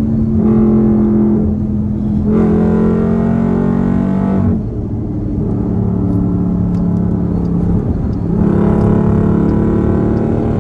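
Straight-piped Dodge Durango SRT's 6.4-litre Hemi V8 droning at a steady engine speed under way. It eases off about four and a half seconds in and comes back on strongly near eight and a half seconds.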